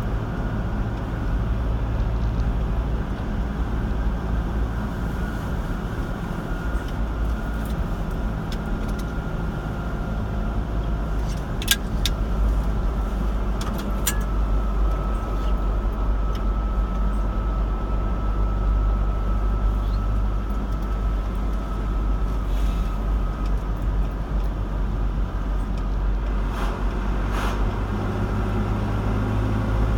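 Car driving on a road: steady engine and tyre road noise, with a few sharp clicks about twelve and fourteen seconds in.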